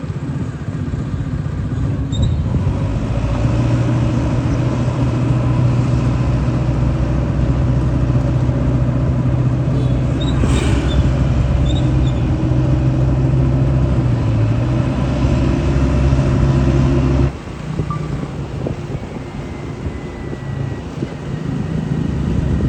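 Heavy diesel engine of earth-moving machinery running steadily, its low drone dropping suddenly in level about seventeen seconds in, with a brief sharp noise about halfway through.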